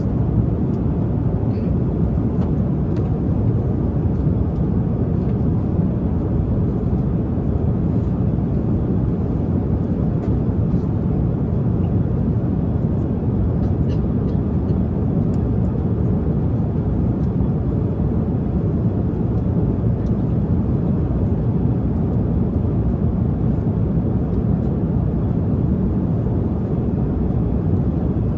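Airliner cabin noise in flight: a steady, even low roar of engines and airflow with no change.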